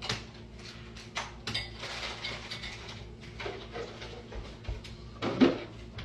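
Household handling noises: a run of irregular clicks and knocks over a low hum, with one louder brief sound about five seconds in.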